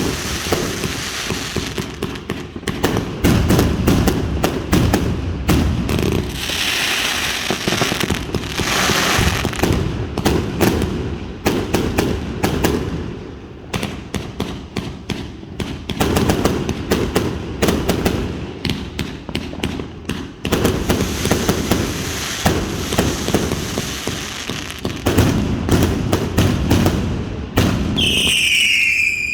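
Georgie's Revenge firework going off in a fast, unbroken run of sharp cracks and bangs, with bursts of hiss along the way. A falling whistle sounds near the end.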